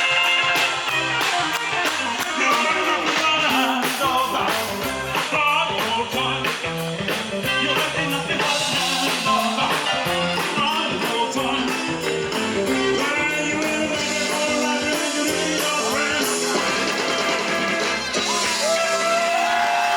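Rock-and-roll song: a male lead vocal over electric guitar and a fast, even drum beat, ending on a long held note near the end.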